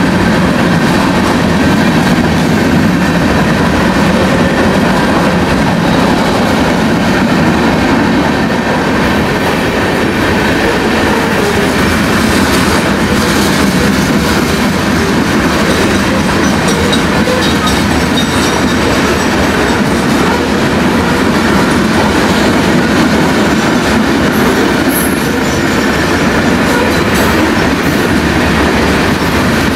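BNSF freight train's cars rolling past at speed: a loud, steady rumble of steel wheels on the rails.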